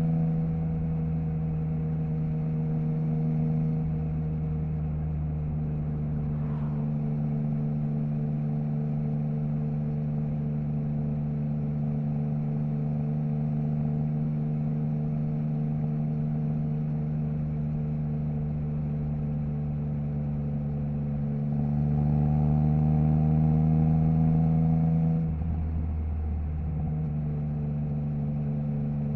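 Triumph Trident 660's inline three-cylinder engine through a Zard stainless full exhaust with the baffle removed, running at a nearly steady pitch while riding. Near the end it gets louder for a few seconds, then falls back suddenly with a brief rough patch before settling again.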